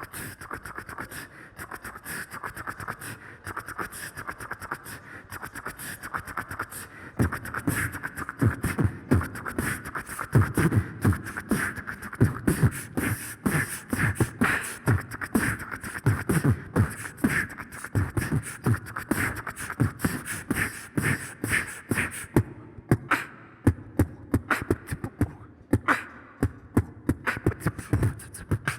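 Beatboxing by a duo: a fast run of mouth-made clicks and hi-hat sounds over a held vocal tone. Deep kick-drum beats come in about seven seconds in, and the texture thins to sparser hits a few seconds before the end.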